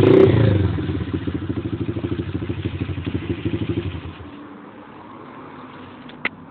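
125cc Welsh Pit Bike single-cylinder four-stroke engine, throttled up briefly at the start and then running with a rapid, even putter. The engine note fades away about four seconds in, followed by a single sharp click near the end.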